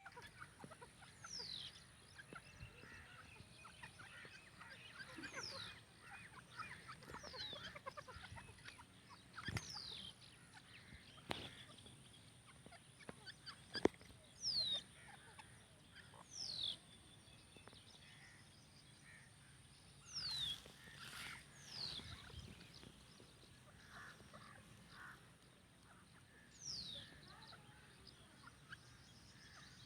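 Teetar (francolin) calling: short, high whistled notes that slide steeply downward, repeated every second or two, with a few sharp knocks among them.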